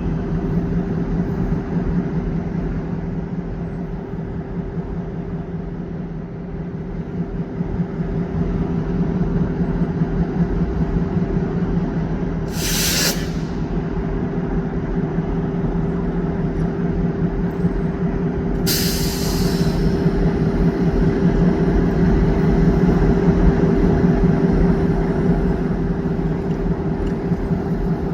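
Diesel locomotive engine running steadily with a low hum, broken by two short bursts of air hissing from the air brakes, about halfway through and again some six seconds later.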